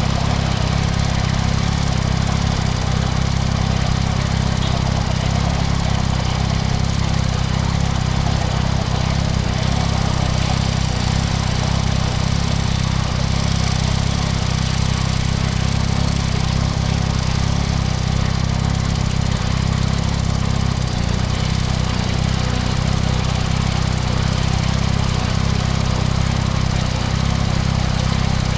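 Yamaha MT-09 SP's 890 cc inline three-cylinder engine running steadily through a Spark aftermarket exhaust, its pitch holding level with no revving. A steady hiss sits over it.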